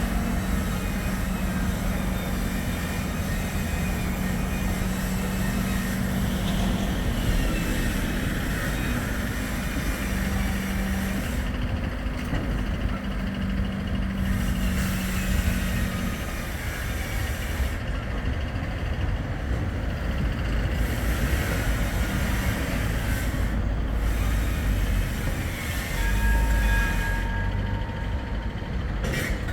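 Bombardier Flexity 2 light-rail tram running: a steady low rumble with a steady hum through the first half. Near the end, two steady higher tones sound together for a couple of seconds.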